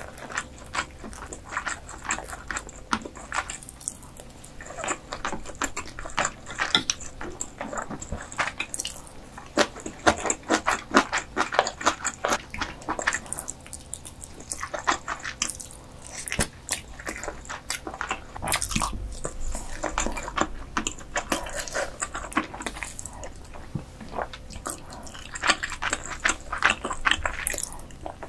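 A person chewing food close to the microphone: many quick mouth clicks coming in clusters, with short pauses between them.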